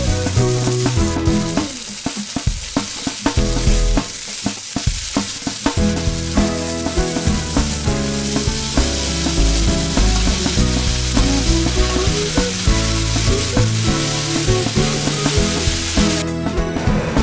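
Chopped onion, halved cherry tomatoes and green beans sizzling in an oiled frying pan while they are stirred, with short clicks of the utensils against the pan. A melodic background music track plays over it.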